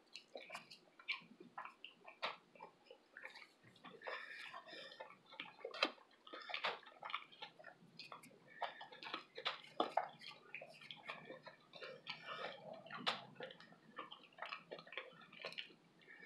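Close-miked chewing and wet mouth smacks of a person eating, a run of irregular soft clicks and crackles.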